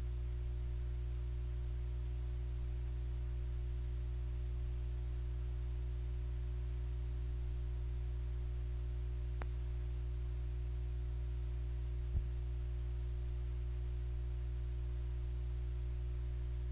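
Steady electrical hum made of several low tones, unchanging throughout. A single faint click comes about nine and a half seconds in, and a brief low knock about twelve seconds in.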